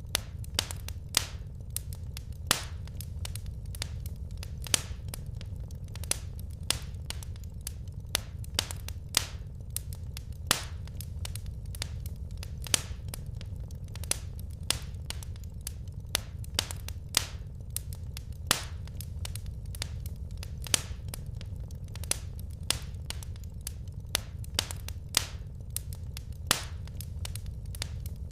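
Wood fire in a fireplace crackling: irregular sharp pops and snaps, a few each second, over a steady low rumble of the burning logs.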